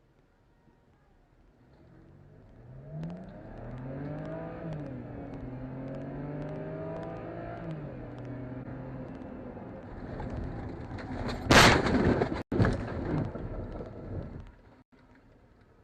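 Car engine accelerating, its pitch climbing and dropping back as it goes through the gears, then a loud sudden crash-like noise about eleven and a half seconds in, followed by a few seconds of clatter.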